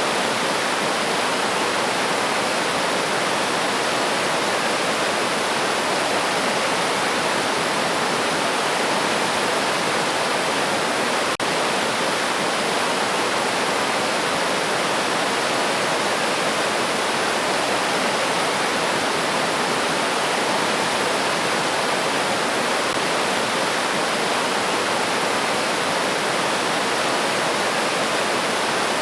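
River water rushing and splashing steadily, with one momentary dropout about a third of the way in.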